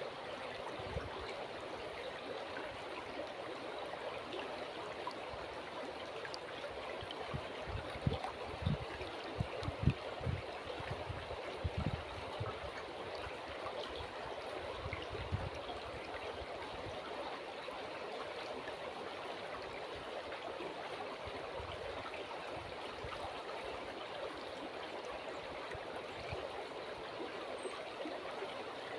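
River water flowing with a steady rushing. About a quarter of the way in comes a run of short low thumps over a few seconds, and one more shortly after.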